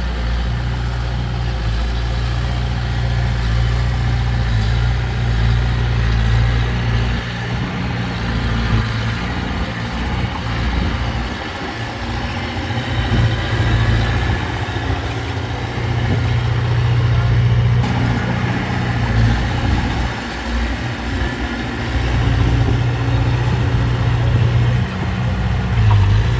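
Diesel engine of heavy earthmoving machinery running, with a low engine note whose level rises and falls.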